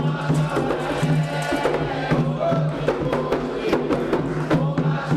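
Candomblé xirê music: hand drums and sharp wooden or metal percussion strokes played fast and dense, with voices singing over them.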